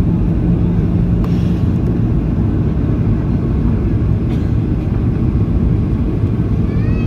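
Steady cabin noise inside a Boeing 737-800 airliner on approach: a deep rumble of its CFM56 engines and airflow. A low steady hum within it fades out about one and a half seconds in.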